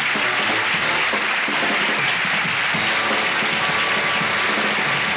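Studio audience applauding over band music at the end of a sketch.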